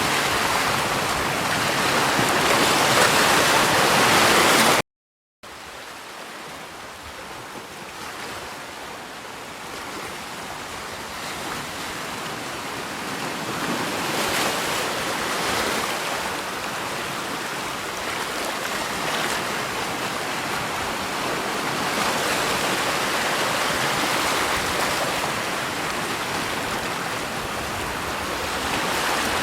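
Steady rushing water. About five seconds in it cuts off for half a second, then a different water recording starts quieter and slowly grows louder, with gentle swells.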